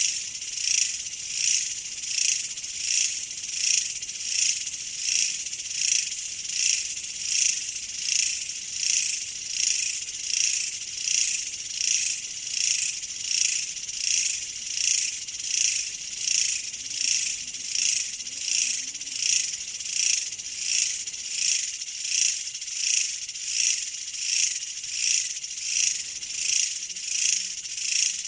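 Insects chirping in a cricket-like chorus, a high-pitched sound that pulses evenly at about three beats every two seconds.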